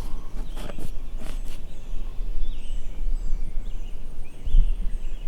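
Wild birds chirping several times over a steady low rumble of outdoor noise, with a few soft knocks.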